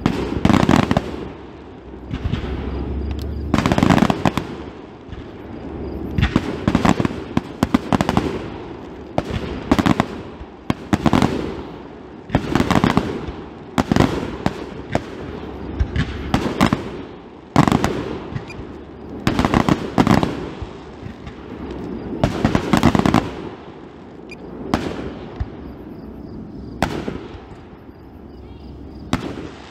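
Fireworks display: aerial shells bursting one after another, sharp booms every second or two, each with an echoing tail.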